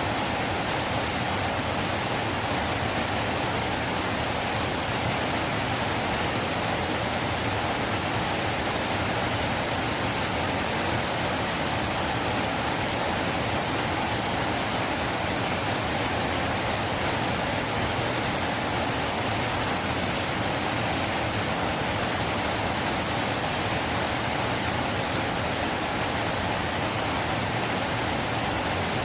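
River water rushing steadily: an even, unbroken roar of flowing water with no changes.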